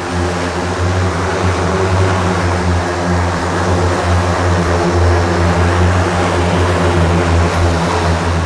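The Hexa one-seat electric multirotor's 18 carbon-fibre propellers running in flight: a steady low hum under a dense whooshing rotor wash. It grows louder about a second in and eases slightly near the end.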